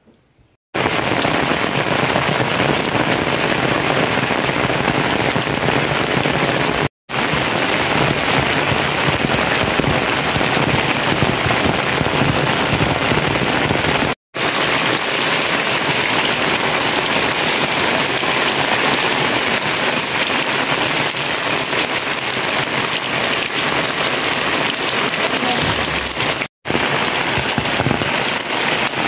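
Heavy rain pouring steadily, a dense even hiss that starts suddenly about a second in and drops out for a split second three times.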